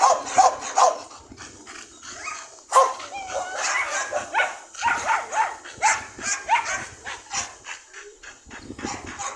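Dog barking and yipping repeatedly in short, sharp calls, a few a second, loudest at the start and again about three seconds in.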